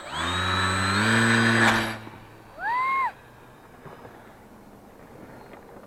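Homemade radio-controlled model aircraft's motor and propeller spinning up quickly, running steadily with a high whine for about two seconds and cutting off. A brief rev follows that rises and falls.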